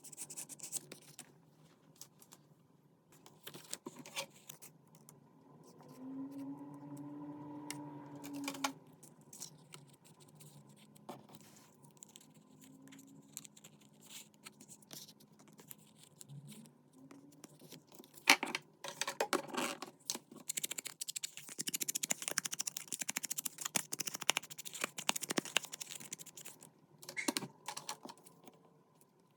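Paper-crafting sounds: cardstock and paper being handled, with scattered taps and clicks, then a long stretch of quick scratchy rustling and clicking in the second half. A brief low hum comes in about six seconds in.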